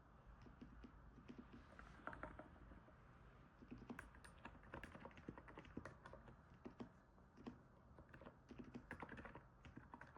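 Quiet typing on a NiZ 68 Pro capacitive keyboard: irregular runs of soft keystrokes with short pauses, sounding like stepping on snow.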